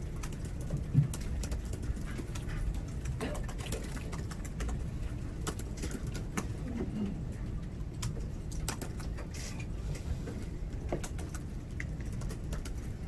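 Press-room background hum with scattered light clicks of laptop keyboards being typed on, while no one speaks.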